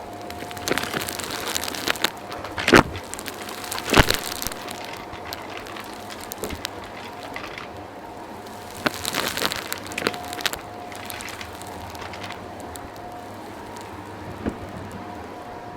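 Vacuum cleaner picking up gritty dirt: stretches of crackling and crunching as debris rattles up the hose, with two sharp knocks about three and four seconds in.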